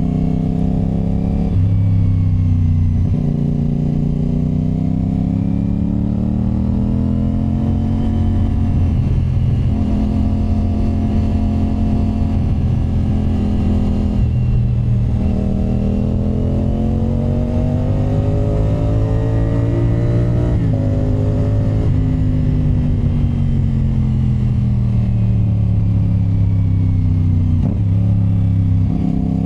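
CF Moto 450SR-S parallel-twin engine running under way through an SC Project exhaust. The note rises and falls again and again as the bike accelerates and slows, with short breaks between rises.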